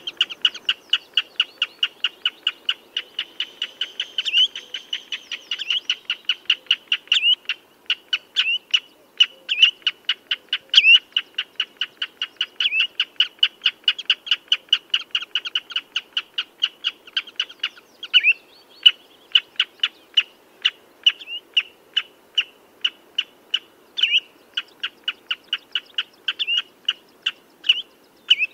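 Common redshank calling: a fast, steady string of short piping notes, about four a second, with now and then a louder note that slides up in pitch.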